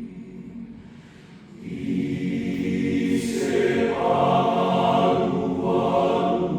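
Men's choir singing a Batak Toba hymn in rehearsal, holding long chords; the singing drops soft about a second in, then swells into a loud, sustained passage.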